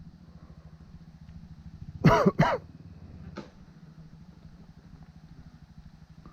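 Dirt bike engine idling with an even, rapid pulse. About two seconds in, a person makes a short vocal sound, like a cough or throat clearing.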